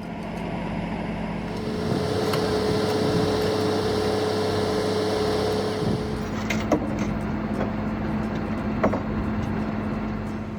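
Tow truck running, with a steady whine added from about two seconds in until about six seconds in, then two sharp clanks.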